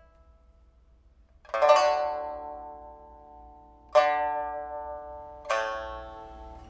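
Early Republic-era pipa with a rosewood body, newly fitted with a replacement soundboard and frets, played in a test after repair: three strong plucked chords, the first about a second and a half in, each left to ring and fade.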